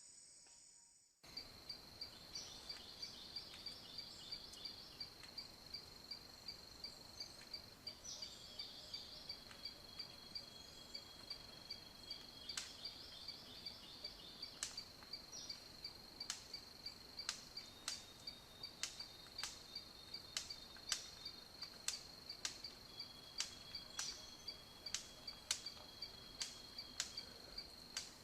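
A steady, high-pitched pulsing trill of insects, with sharp clicks breaking in, more often in the second half. A few faint, thin whistles run under it.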